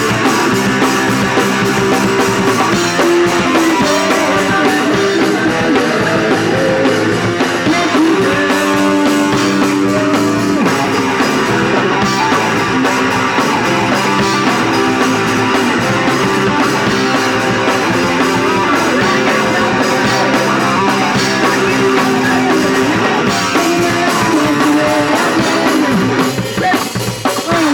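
Live punk rock band playing a song on guitar and drum kit, breaking off near the end.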